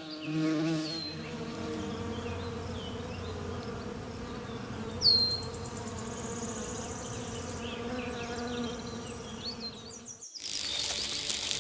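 A fly buzzing steadily, a droning hum with overtones, with a short high chirp about halfway through. Near the end the buzz breaks off and a hissier, higher sound begins.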